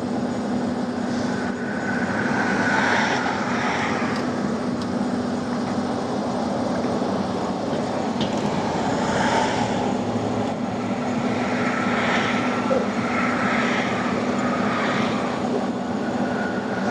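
Hyundai excavator's diesel engine running steadily under work, with higher whining surges every few seconds.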